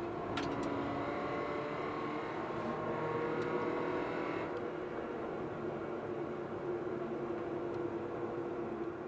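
Mazda MX-5's four-cylinder engine heard from inside the cabin while driving, running at a steady note. The higher part of the engine sound drops away about halfway through as it eases off.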